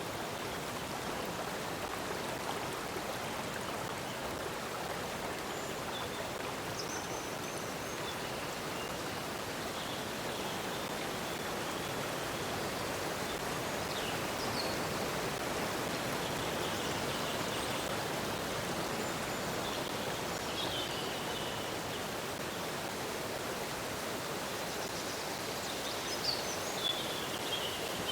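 Stream water flowing steadily, with small birds chirping faintly every few seconds, a little more clearly near the end.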